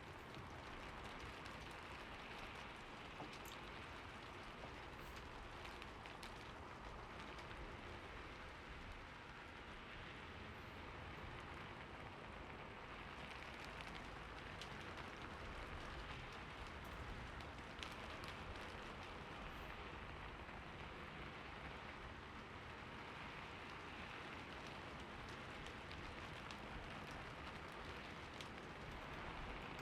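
Steady, soft rain falling, an even hiss with scattered individual drops ticking on a surface.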